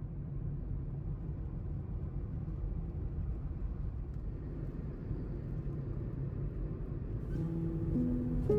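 Steady low rumble of background noise. Plucked-string music starts near the end.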